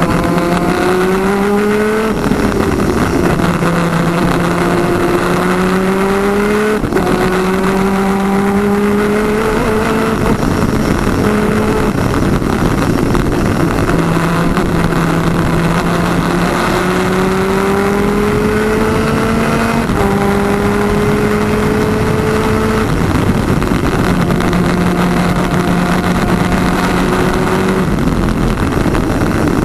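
Twin 250cc two-stroke superkart engine at racing speed. Its pitch climbs steadily in each gear and drops back at each gear change, several times over.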